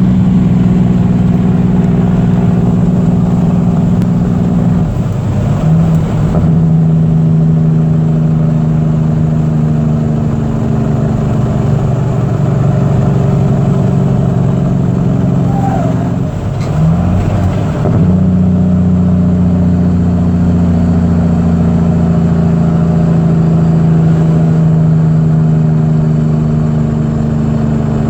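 Caterpillar C15 ACERT inline-six diesel engine running steadily at a held speed. Its pitch briefly dips and shifts twice, about five seconds in and again around seventeen seconds.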